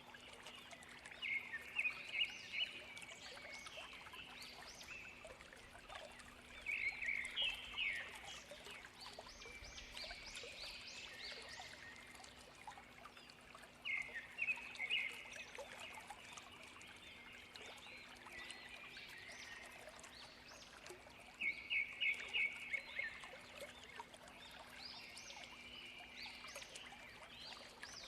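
A songbird singing a phrase of quick repeated notes four times, roughly every seven seconds, with softer calls between, over the steady rush of a waterfall.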